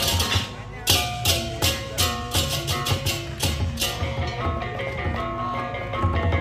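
Balinese baleganjur gamelan playing. The dense clashing of the ceng-ceng cymbals breaks off about half a second in, leaving spaced cymbal accents over ringing pitched gongs and a low drum and gong beat. In the second half the cymbals drop away and the pitched gongs carry on.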